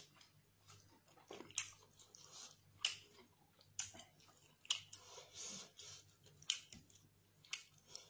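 Close-up eating sounds of a person chewing chicken and rice by hand: wet chewing with sharp lip smacks and mouth clicks about once a second.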